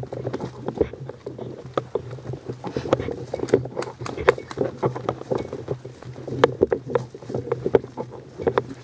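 Irregular rustling and tapping of footsteps and gear moving close to the microphone, several soft knocks a second, over a steady low hum.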